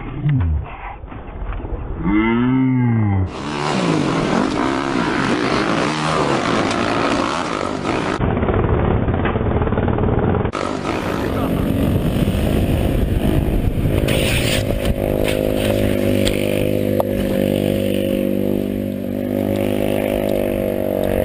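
Dirt bike engines revving across several short clips, the pitch swinging up and down with the throttle at first, then a steady engine drone held at one pitch in the second half.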